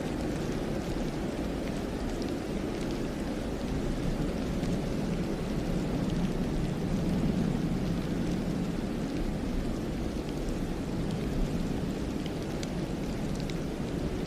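Steady snowstorm wind sweeping through a forest, a dense even rushing noise with a few faint scattered ticks, most of them near the end.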